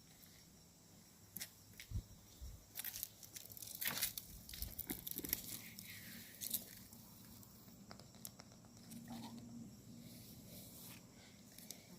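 Footsteps crunching and rustling through dry leaf litter and twigs on the forest floor, an irregular run of crackles that is busiest and loudest in the first half, then fades to softer rustling.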